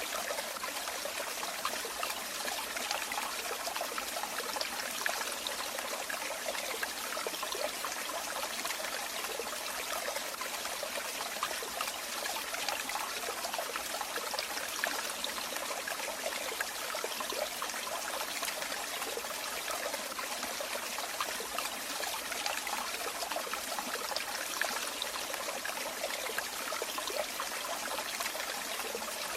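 Running water trickling and splashing steadily, as of a small stream or water falling over stones.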